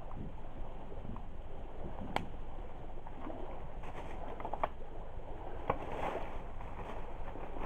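Driftwood campfire crackling, with a few sharp pops spread through it, over a steady low rushing sound.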